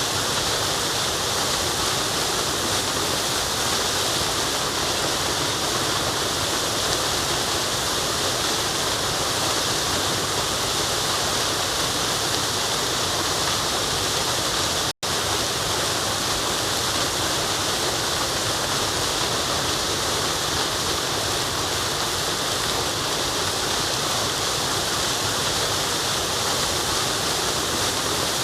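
Steady, continuous rushing of a forest waterfall, even in level throughout, broken once about halfway by a split-second drop to silence.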